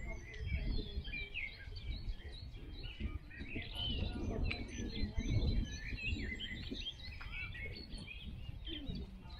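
Many small birds chirping and trilling in quick, overlapping calls, over a steady low rumble of background noise that swells slightly in the middle.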